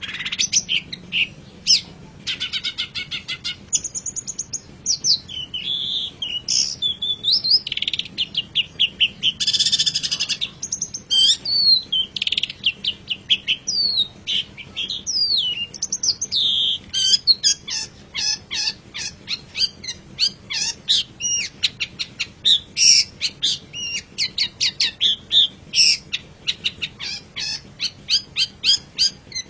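Long-tailed shrike (cendet) singing a varied song of whistled glides, chatters and short trills. From about halfway through it turns into a fast, dense run of quick repeated notes.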